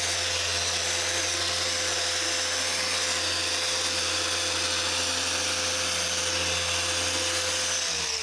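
Small Rupes iBrid Mini random-orbital polisher running steadily as it polishes car paint, with a constant motor whine. Near the end it is switched off and winds down, its pitch falling.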